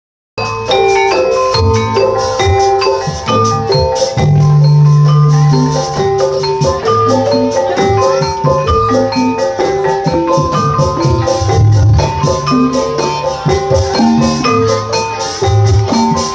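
Javanese gamelan music of the kind played for a jaranan horse dance: struck metal keyed instruments ring out in quick repeating patterns over low, longer-held tones, starting abruptly right at the beginning.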